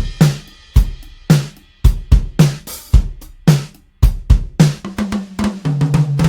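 Sampled acoustic drum kit from Toontrack's EZdrummer 3 playing a steady kick-and-snare beat with hi-hat and cymbals. From about four and a half seconds in it breaks into a fill of quicker hits, with ringing drum tones that step down in pitch.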